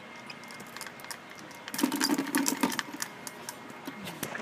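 A squirrel scrabbling in a bird feeder: a rapid run of clattering and scratching clicks lasting about a second, starting a little under two seconds in, with scattered lighter clicks around it.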